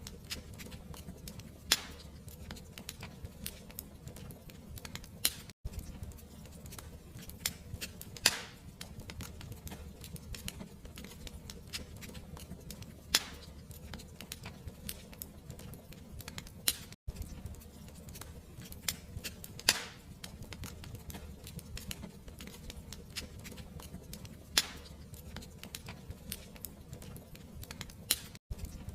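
Crackling wood fire: a steady low rumble with constant small snaps and a few louder pops scattered through. The sound drops out for an instant three times.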